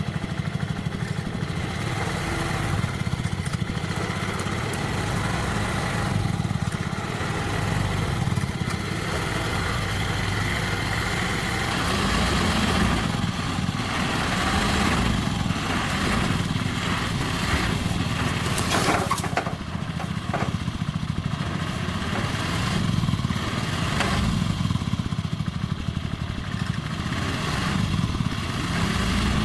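A small engine running steadily, with a few sharp knocks about two-thirds of the way through.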